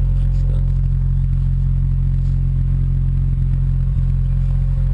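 Mazda RX-7 turbo's 13B rotary engine idling steadily after a cold start, a loud low exhaust hum with no revving.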